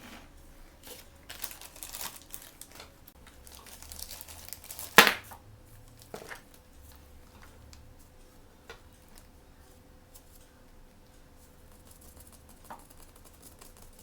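Toy blind-bag packaging being crinkled and torn open by hand, with one sharp loud snap about five seconds in and a few small clicks of handling afterwards.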